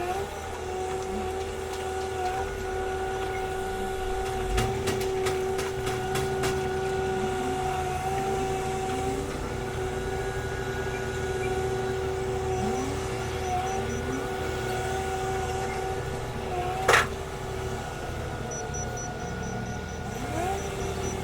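Heavy wheel loader running steadily: a constant whine over a low diesel rumble, with several short rising sweeps and one sharp knock near the end.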